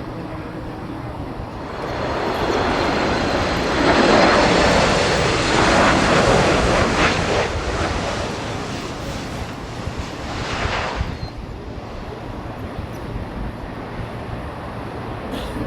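A jet airliner passing by, its engine noise swelling over the first few seconds with a high whine on top, loudest around the middle and fading away in the second half.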